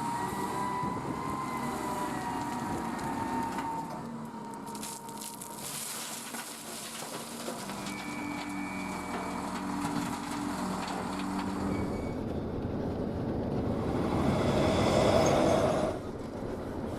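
Vehicle noise: a continuous rumble with engine tones, swelling louder shortly before the end and then dropping off abruptly.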